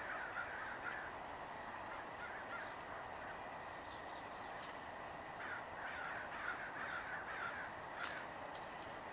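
A bird calling in two bursts of rapid, chattering notes, a short one at the start and a longer one in the second half, over a steady background hiss.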